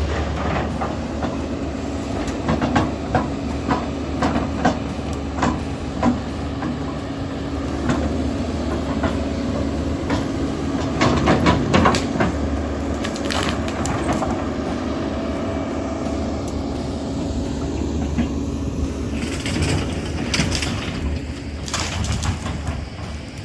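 A large excavator's diesel engine runs steadily while irregular metallic clanks and knocks of the machine at work sound over it, thickest around the middle and again near the end.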